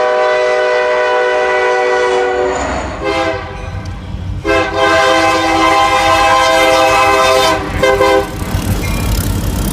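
Diesel locomotive's multi-chime air horn blowing a series of blasts: a long one, a brief one, another long one of about three seconds, then a short toot, over the low rumble of the passing train.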